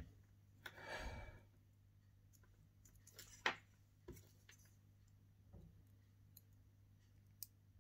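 Near silence with a low steady hum and a few faint clicks and taps from handling the phone board and bench power-supply leads, the sharpest about three and a half seconds in, with a soft rustle about a second in.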